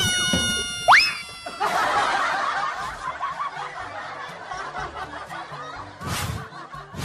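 Cartoon soundtrack of music and comic sound effects: a sharp rising glide about a second in, then a long stretch of snickering laughter, with short loud bursts near the end.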